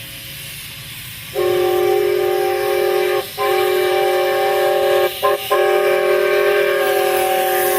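Multi-chime train whistle sounding a chord of several notes, in long blasts with brief breaks: it starts about a second and a half in, cuts out briefly near the middle and twice more a little later, and is still sounding at the end.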